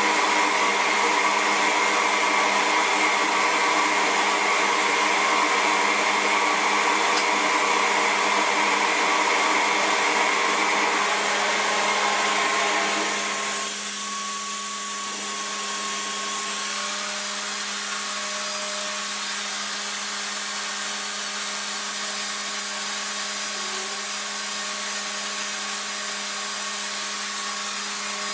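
RevAir reverse hair dryer running steadily, its motor drawing air and hair in through the wand by suction rather than blowing. About halfway through, the sound drops in level and becomes thinner, then carries on steadily.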